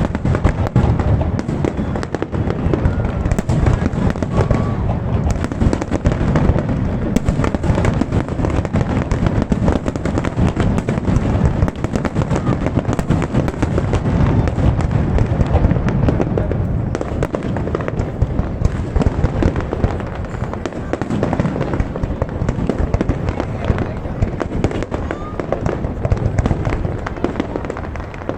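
Aerial fireworks display: a dense, continuous barrage of bangs and crackles with no let-up.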